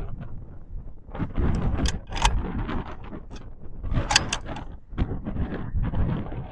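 Wind buffeting the microphone with a steady low rumble. A few sharp metallic clicks and slides come about two and four seconds in, a bolt-action rifle's bolt being worked after a shot.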